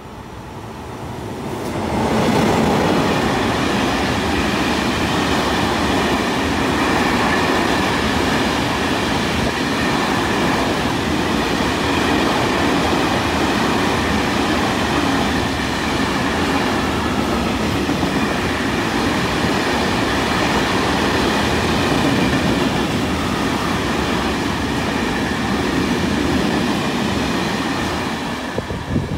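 A long train passing close at speed: the sound builds over the first two seconds, holds steady and loud through the passage of its cars with a steady high whine over the rumble, then drops away near the end with a brief louder jolt.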